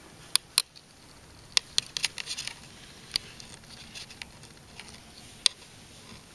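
Irregular sharp clicks and light taps, about a dozen, with a quick run of them between two and two and a half seconds in.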